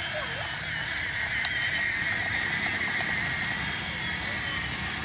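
Electric motor and gearbox of a Huina 1573 remote-control dump truck whining steadily at a high, slightly wavering pitch.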